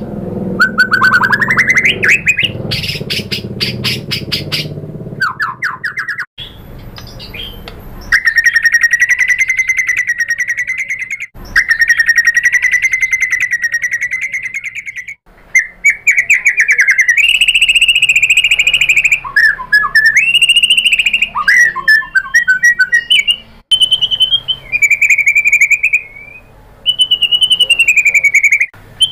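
White-rumped shama singing a varied, loud song. It runs from rapid rattling trills into long, wavering whistles held near one pitch, then into quick rising and falling whistled notes broken by short pauses.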